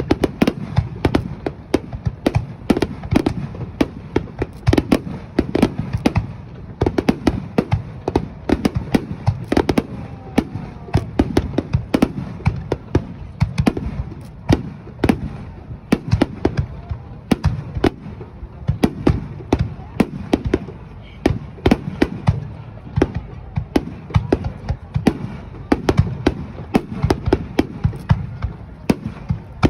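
Aerial fireworks display: a continuous rapid barrage of shell bursts, several sharp bangs a second.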